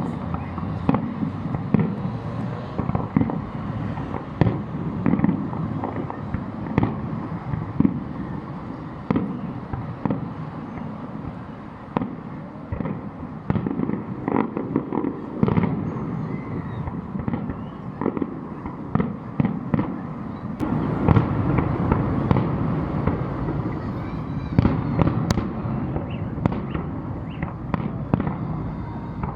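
Fireworks salute: a continuous run of bangs and crackling shell bursts over a steady rumble, growing denser and louder about two-thirds of the way through.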